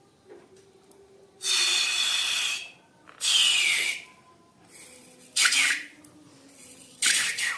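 Slime squeezed out of balloons: four short bursts of hissing, sputtering air and slime, each about a half second to a second long, one sliding down in pitch.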